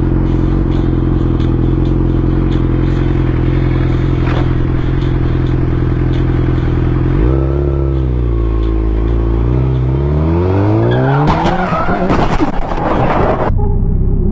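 A vehicle engine running steadily, then from about seven seconds its pitch dips and climbs steadily as it accelerates hard. Around eleven seconds it gives way to a rough burst of noise, and near the end the sound cuts suddenly to a duller recording of traffic.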